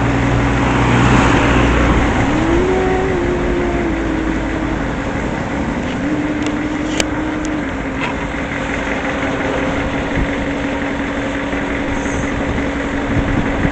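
Motor vehicle engine running steadily, with a few brief rises in pitch in the first half and a couple of faint clicks.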